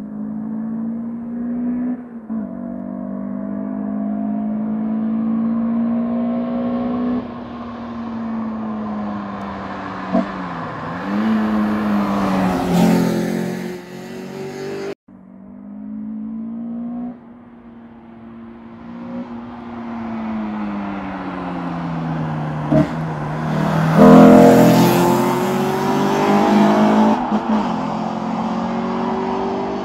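Peugeot 306 GTi-6's 2.0 16-valve four-cylinder (XU10J4RS), fitted with an aftermarket camshaft, revving hard under acceleration. Its pitch climbs and falls through several pulls, is loudest at the top of them, and cuts out briefly about halfway.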